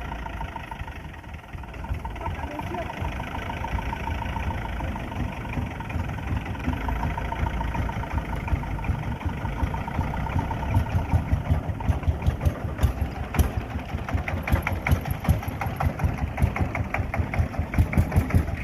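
A vehicle engine running at idle. About ten seconds in it grows louder, with a fast, regular knock.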